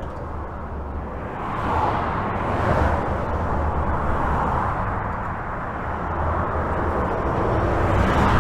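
Highway traffic heard from under a bridge: a constant low rumble with tyre noise that swells and fades as vehicles pass, several times over.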